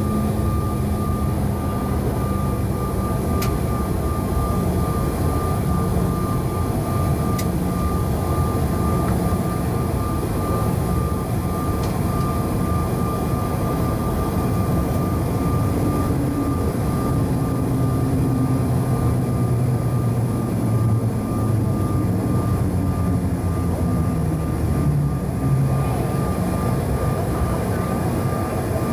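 Steady in-flight cabin noise of a Bombardier CRJ-900: the drone of its rear-mounted turbofan engines and the rush of air, with a thin steady whine above the low rumble.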